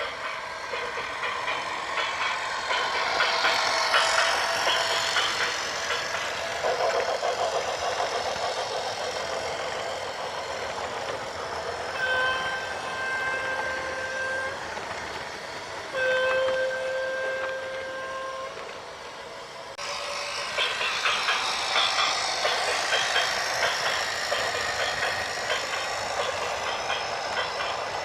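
A vehicle horn sounds two long blasts about two seconds apart, each lasting about two and a half seconds, over steady machinery and traffic noise.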